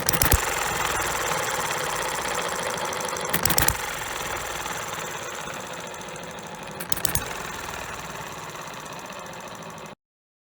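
Hit-and-miss model engine with a spark igniter running: a short burst of firing strokes three times, about three and a half seconds apart, with the engine coasting on a fast mechanical clatter between them. The sound cuts off near the end.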